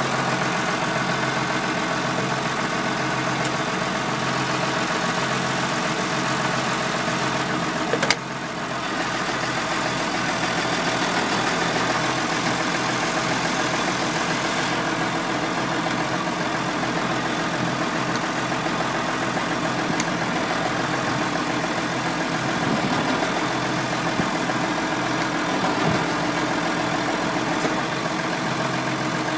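Massey Ferguson 6290 tractor's diesel engine running steadily, with a sharp click about eight seconds in followed by a brief dip in level.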